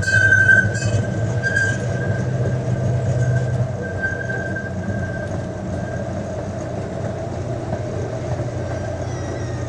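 Miniature zoo train running along its track: a steady low hum with a thin high squeal that fades out about six seconds in.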